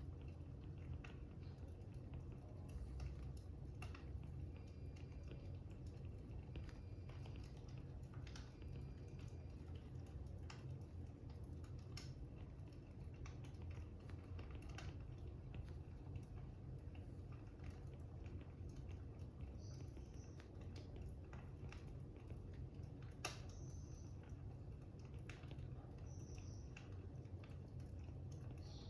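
Faint crackling fire with scattered sharp pops over a low steady hum, mixed with light taps and scratches of a stylus writing on an iPad screen.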